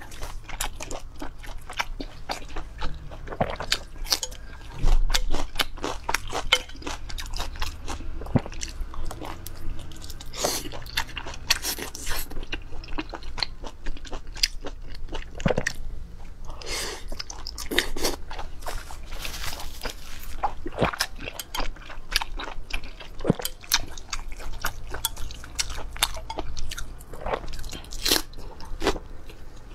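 A person eating close to the microphone: continual crunchy bites and chewing, irregular crackles one after another, with a low thump about five seconds in.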